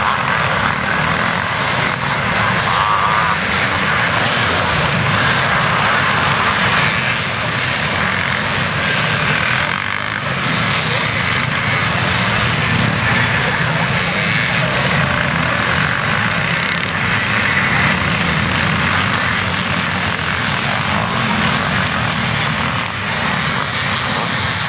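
Several motocross bikes racing at once, their engines blending into one steady, loud mass of engine noise.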